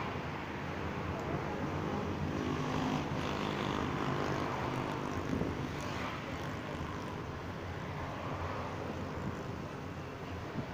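Passenger train on the move: a steady rumble of running gear and wind noise, with a faint drone for a few seconds in the middle.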